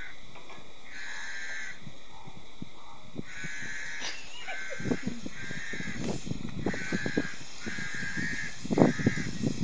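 A bird calling over and over in a long series of short calls. From about five seconds in there is low rustling and a few thumps, the loudest near the end.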